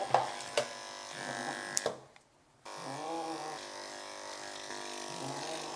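Electric grooming clippers buzzing steadily as they shave a matted cat's coat, with a few sharp clicks early on. The buzz cuts out for about half a second a little after two seconds in, then resumes abruptly.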